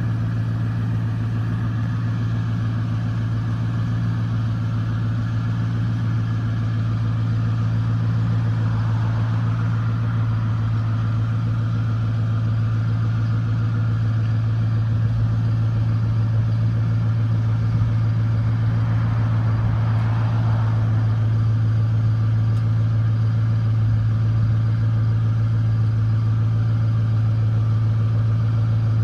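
A 1999 Ford F-150's engine idling steadily. The truck has 282,000 miles on it.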